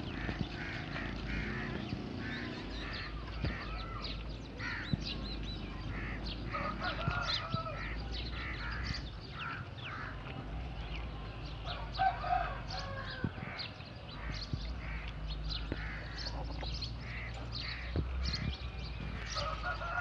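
Many birds calling, a dense scatter of short chirps and calls over a steady low rumble.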